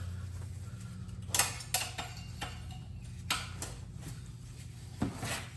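A few separate light metallic clinks and knocks of metal parts or hand tools being handled, over a steady low hum.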